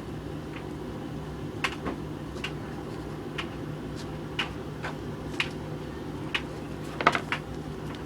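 Hoover VHV680C tumble dryer running with a steady hum and rumble. Irregular sharp clicks, roughly one a second, come from the tumbling load knocking against the drum, and the loudest falls about seven seconds in.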